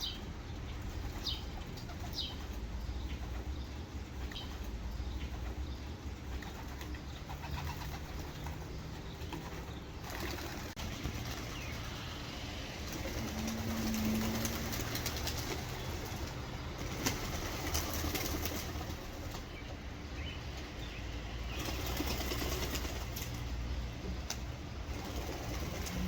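Racing pigeons flapping their wings, with a short low coo about halfway through, over a steady low rumble.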